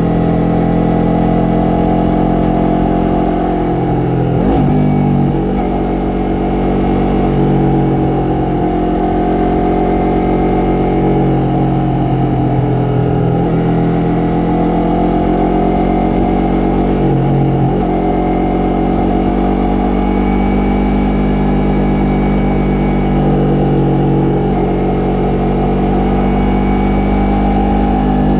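Yamaha MT-03's parallel-twin engine and exhaust running under way, its pitch dropping and climbing again several times with throttle and gear changes.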